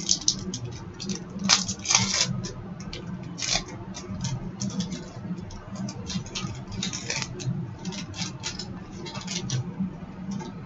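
Trading cards and a pack wrapper being handled: a run of short, irregular crinkles, rustles and clicks as cards are shuffled and the next pack is opened, over a steady low hum.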